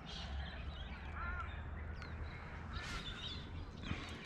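Several wild birds calling: two rough squawking calls, one at the start and one near three seconds in, with a warbling call and short chirps between them.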